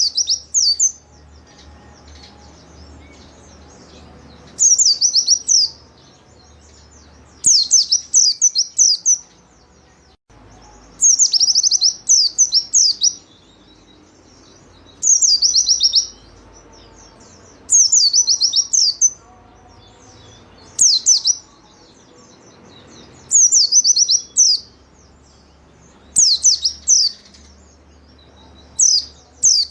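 White-eye (pleci) singing in the loud, vigorous 'gacor' style used as tutor song: short high-pitched bursts of rapid falling notes, each about a second or two long, repeated roughly every three seconds.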